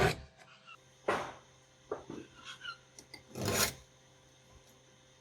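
A hand file scraping in a few separate strokes across the rakers (depth gauges) of a Stihl MS361 chainsaw chain, lowering them to depth. The strokes come at the start, about a second in and a longer one about three and a half seconds in, with fainter scrapes between.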